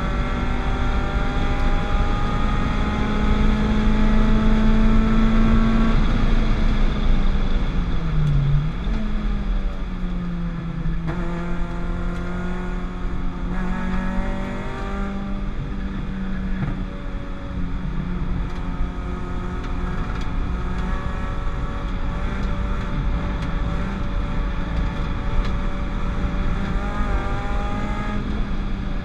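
Peugeot 205 GTI with a 206 RC 2.0-litre four-cylinder engine running hard on a track lap. The engine note climbs, falls steeply from about six seconds in to a low point near eight seconds as the revs drop, then picks up again and holds, with another rise a little later.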